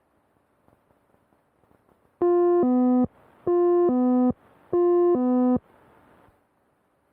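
Electronic two-tone alert in the aircraft's headset audio, a higher note dropping to a lower one, sounded three times in quick succession.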